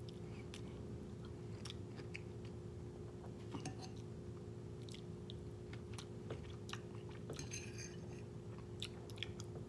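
Close-miked chewing of a soft rice dish with egg and kimchi, with small wet mouth clicks and a fork now and then scraping and clinking in a ceramic bowl. A faint steady hum runs underneath.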